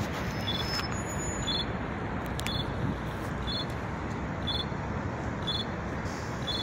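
Steady running noise of a train moving along the tracks, heard from on board. A short, high beep repeats about once a second over it.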